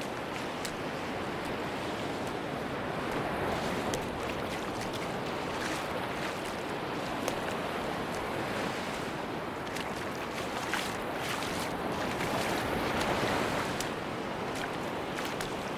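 Ocean surf washing on a beach: a steady rush of breaking waves that swells and eases over several seconds, with scattered light clicks through it.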